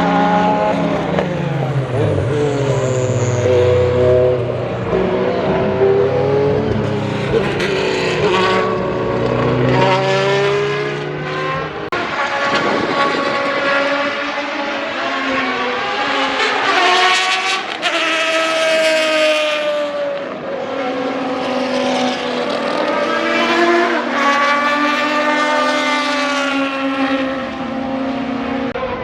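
Group C sports-prototype race car engines running at speed, their pitch repeatedly climbing and dropping back through gear changes as the cars accelerate and pass.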